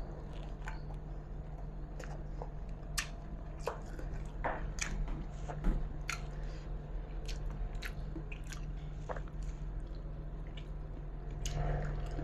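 Close-up biting and chewing as a person eats rice and jengkol (dogfruit) in a rich sauce by hand, with many short wet clicks from the mouth, one sharper than the rest a little past the middle. A steady low hum sits underneath.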